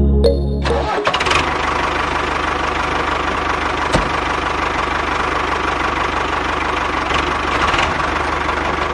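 A small engine running steadily with a rattling, knocking sound, cutting in as the music stops.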